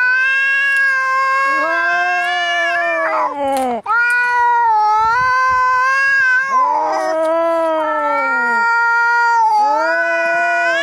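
Angry cats caterwauling in a fight standoff: long, drawn-out yowls that waver up and down in pitch, one high voice and one lower voice overlapping, with a brief break a little under four seconds in.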